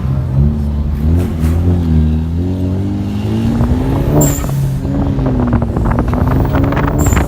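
Car engine running with its pitch rising and falling as the throttle is worked, plus two brief high-pitched squeaks, one about four seconds in and one near the end.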